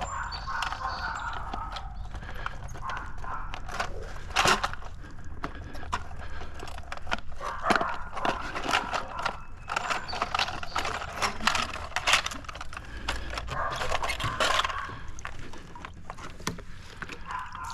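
Irregular scraping strokes and hard knocks as an algae-coated pool cleaner is scrubbed with a brush and handled.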